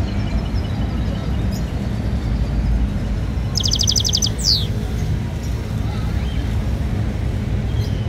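Steady low background rumble, with a songbird cutting in about halfway through: a short, rapid trill of about a dozen quick notes, then one quick falling whistle.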